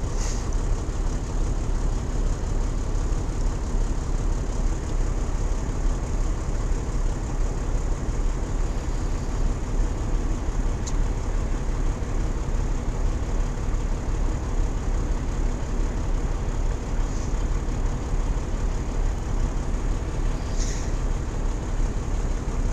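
Steady drone of a Peterbilt 379 truck's diesel engine heard from inside the cab, even and unchanging throughout, with a few faint brief high sounds over it.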